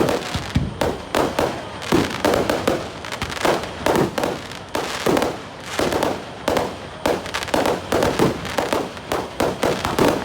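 Fireworks exploding in quick succession, several sharp bangs a second with crackle and echo after each.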